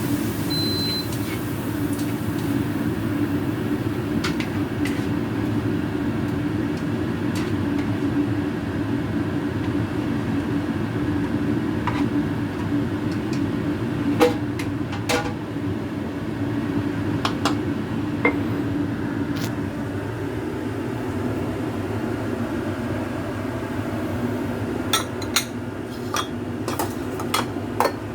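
Dishes and utensils clinking and tapping now and then over a steady low kitchen hum, with several clinks in quick succession near the end.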